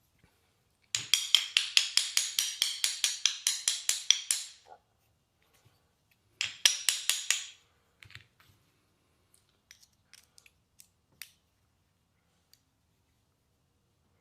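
A hand tool working on a small-engine carburetor during removal of the emulsion tube: two runs of quick, even clicks, about six a second, the first for nearly four seconds and the second for about a second, followed by a few scattered light ticks.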